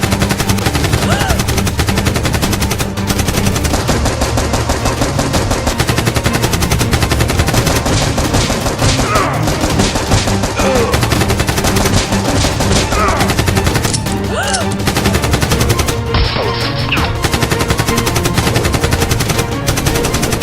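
Sustained rapid machine-gun fire sound effects, many shots a second, laid over a steady background music track.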